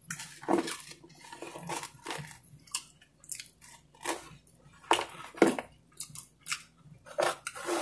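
A person chewing a mouthful of pizza: a string of short, irregular mouth clicks and smacks.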